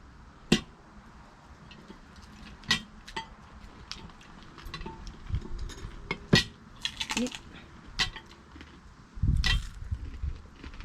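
Cutlery clinking against plates during a meal: a string of sharp, separate clinks a second or two apart, with a duller knock near the end.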